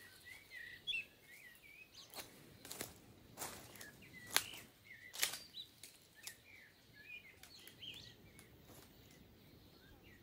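Small forest birds giving short, high chirps again and again, over footsteps crunching on dry leaf litter and twigs; the loudest sounds are two sharp crunches about four and five seconds in.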